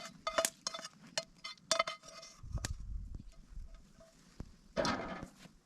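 A metal utensil clinking and tapping against a cooking pan, a quick run of sharp clinks with a slight ring in the first two seconds, then a low rumble and a brief scrape near the end.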